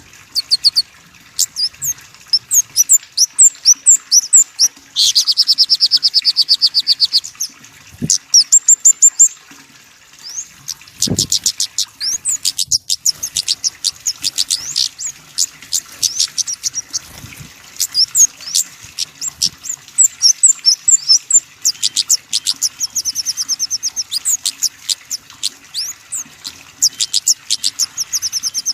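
Small songbird calling in rapid series of short, high chirps, broken by fast trills about five seconds in and again near the end.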